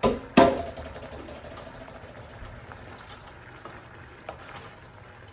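Two sharp clattering knocks of kitchenware, the second and louder one about half a second in, ringing briefly like a bowl or pan being struck; a faint steady hiss follows.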